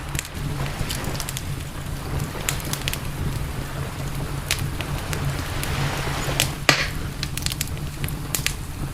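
Campfire wood crackling, with irregular sharp pops and snaps and one louder pop about two-thirds of the way through, over a low steady rumble.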